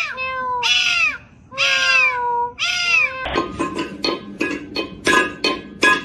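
Domestic cat meowing four times in a row, each call rising and then falling in pitch. About three seconds in, music with a steady beat takes over.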